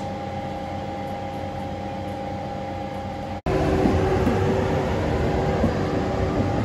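Electric hum of TGV trainsets standing at the platform: steady tones held throughout. After a sudden cut about three and a half seconds in, a TGV rolls slowly past, a louder rumble with a steady whine.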